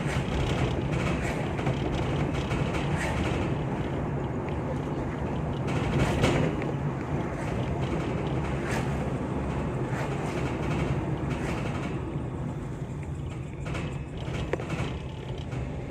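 Steady rumble and low hum of a vehicle on the move, with short knocks and rattles now and then, the loudest about six seconds in.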